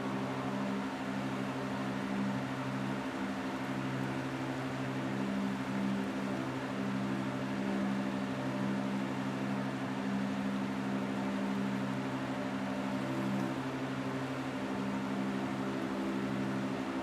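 Steady rain falling as an even hiss, with a constant low mechanical hum underneath it.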